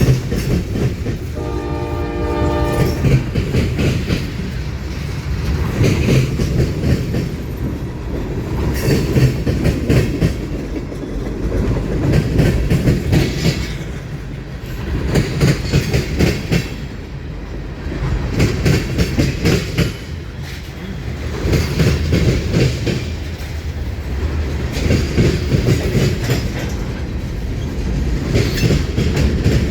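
Freight train passing close by, its wheels clattering over the rail joints, the clatter swelling and easing every couple of seconds as the cars go by. A short train horn blast sounds about two seconds in.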